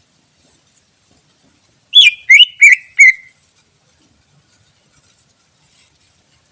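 Cucak ijo (green leafbird) singing: four loud whistled notes in quick succession about two seconds in, each sliding down in pitch.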